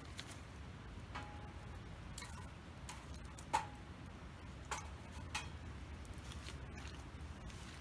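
Wood campfire crackling: scattered sharp pops and snaps, the loudest about three and a half seconds in, over a low steady rumble.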